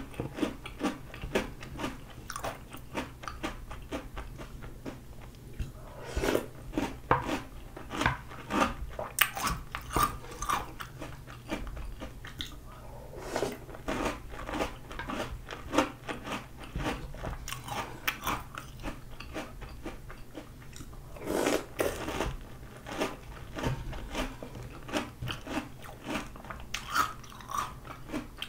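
Close-miked chewing of Oreo O's chocolate cereal in milk: many quick, crisp crunches, densest about six to eleven seconds in and again around twenty-one seconds.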